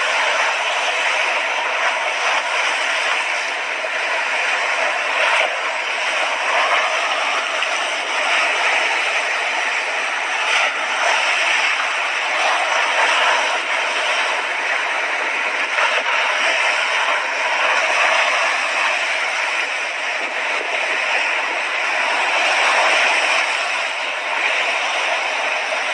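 Sea waves breaking and washing on a beach: a continuous rushing wash that swells and eases every few seconds, with no deep rumble beneath it.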